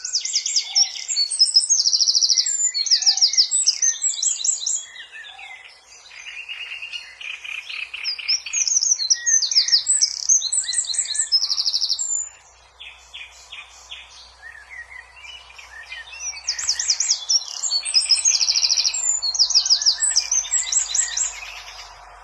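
A small bird singing in high, rapid trills and chirps, in three bursts of song separated by quieter spells.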